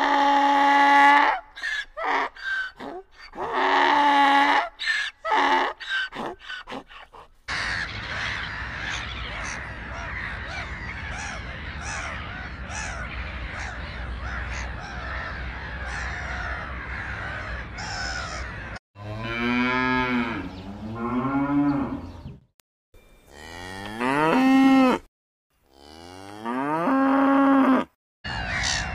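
Three edited clips in a row: onagers braying in a few loud calls with short grunts between them; then black-headed gulls calling over one another in a steady clamour; then dairy cows mooing about four times, each moo sliding in pitch.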